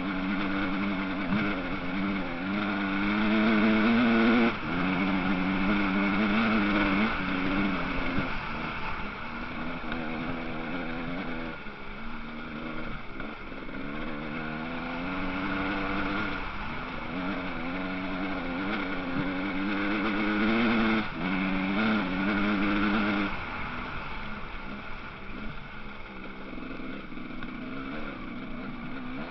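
Motocross bikes racing, engines revving up and down as the riders work the throttle and shift. The sound swells twice as bikes come close, then falls away near the end.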